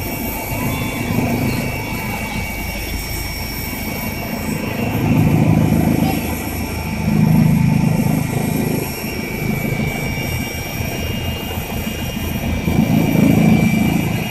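Helicopter running: a steady high turbine whine over low rotor and engine noise, which swells louder a few times.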